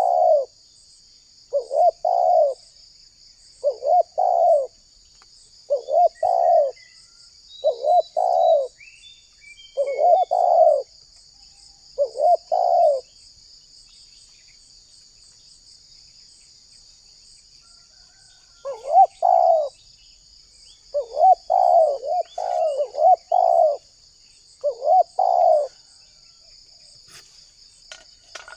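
Spotted dove (tekukur) cooing: the same short coo phrase repeated about every two seconds, stopping for about six seconds midway and then resuming. A steady, high insect chirring runs underneath.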